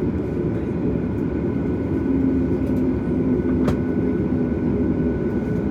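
Steady cabin noise inside a Boeing 737 MAX: its CFM LEAP-1B engines running and the airframe rumbling, with a steady hum of a few tones. A single light click about two thirds of the way through.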